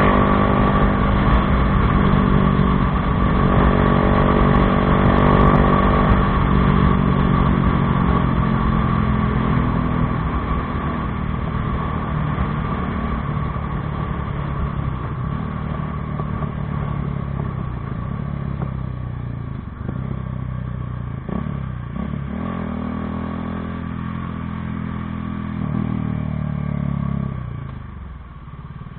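Bajaj Dominar 400's single-cylinder engine through an aftermarket Akrapović exhaust, running under way with its pitch rising and falling as the throttle opens and closes. It is loudest in the first few seconds, settles lower, climbs again, and drops off near the end.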